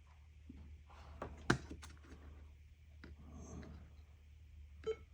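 Light clicks and taps from handling pieces of polarizing film on the LCD display, a sharp one about a second and a half in and another near the end, over a low steady hum.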